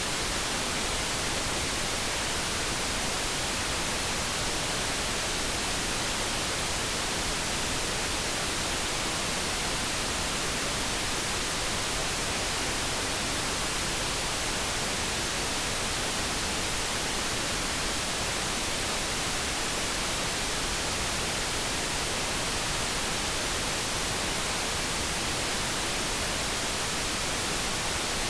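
Steady generated light brown noise: an even, unbroken hiss with no changes and no kettle tone standing out.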